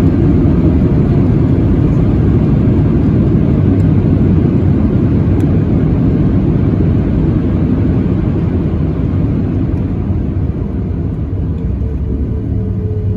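Boeing 737-800 cabin noise: a loud, steady low rumble of the engines and airflow, easing slightly toward the end as a steady hum comes in.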